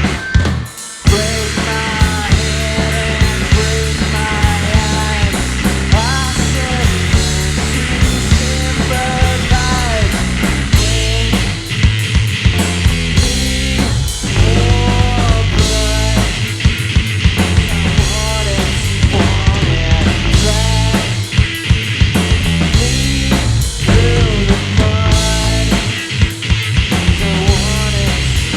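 Three-piece rock band playing live: electric guitar, bass guitar and drum kit, with no singing. There is a brief stop about a second in before the band comes back in.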